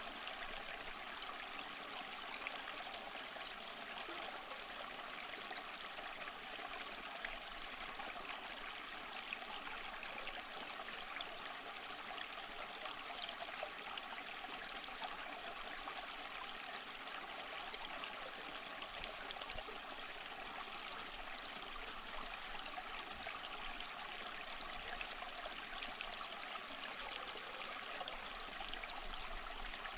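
Waterfall: a steady, unbroken rush of falling water, mostly a hiss with little deep rumble.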